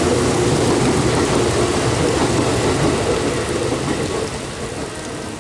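Heavy rain falling, with a loud low rumble that dies away over the last second or so.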